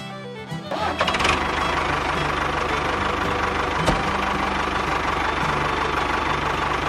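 A small engine starts up about a second in and then runs steadily with a fast, even knock. One sharp click comes about four seconds in.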